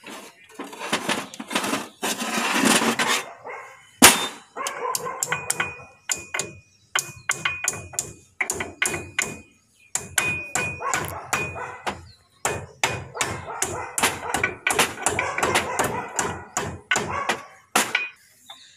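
Steel hammer strikes driving the cotter (cutter) bolt home on a JCB front axle king pin: one hard blow, then many quick metal-on-metal strikes in runs, with a faint metallic ring. A rough scraping noise comes before the first blow.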